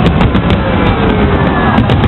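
Fireworks display going off: a quick, irregular run of bangs and crackles over a continuous rumble, with a falling whistle near the middle.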